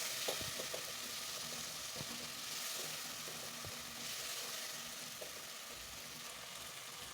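Onion, tomato and spice base sizzling in oil in a pot, a steady frying hiss with a few faint clicks.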